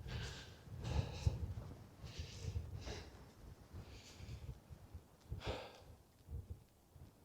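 A person breathing hard while climbing a hill, heavy breaths about once a second that die away in the last couple of seconds, with low thuds and rumble beneath.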